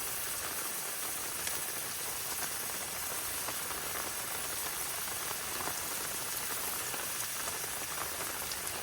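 Heavy rain falling in a steady hiss, with a few scattered drop ticks.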